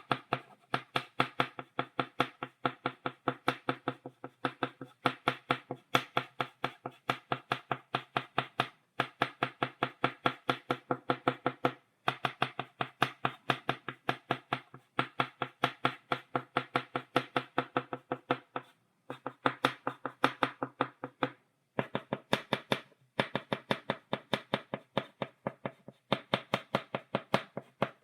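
Chalk tapping against a blackboard, dotting a picture stroke by stroke: a quick, even run of sharp taps, several a second, broken by a few short pauses.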